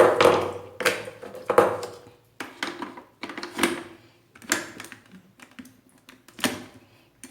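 About nine sharp plastic clicks and knocks at irregular intervals, each with a short ringing tail, as a coffee capsule is loaded into a Nescafé Dolce Gusto capsule machine and the machine is set for brewing.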